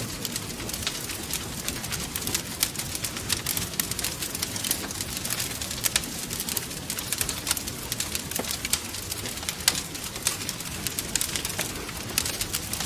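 Wood fire crackling, dense irregular pops and snaps over a low steady rumble of flames, with a faint brief whistle about eight seconds in.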